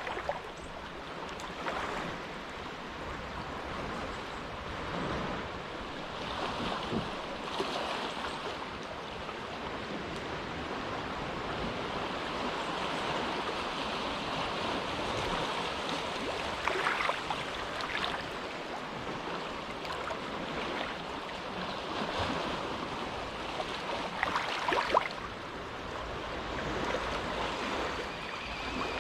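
Small, gentle waves lapping in a sheltered cove, a steady wash of water with a few brief louder splashes as waves break against the shore.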